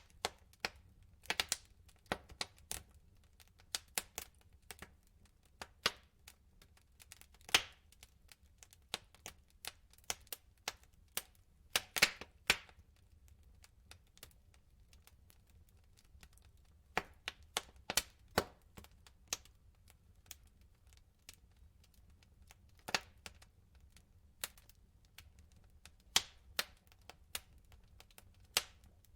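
Wood fire crackling: burning logs give irregular sharp pops and snaps, some much louder than the rest, over a faint low rumble.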